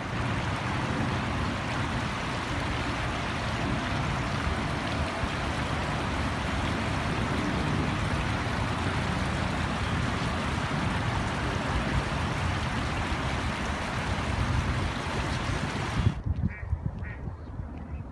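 Fast-moving floodwater of a creek in spate rushing steadily. About two seconds before the end the rushing cuts off abruptly, and a few duck quacks follow.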